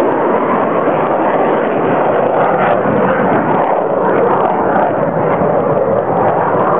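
Fighter jet flying overhead, its jet engines making a loud, steady rushing noise.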